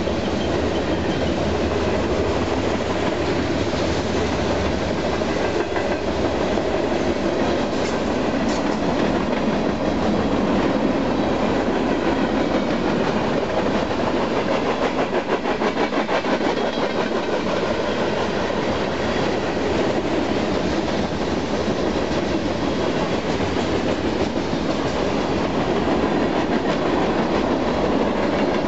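Freight cars of a long mixed freight train rolling past: a steady rumble of steel wheels on rail with a rhythmic clickety-clack over the rail joints.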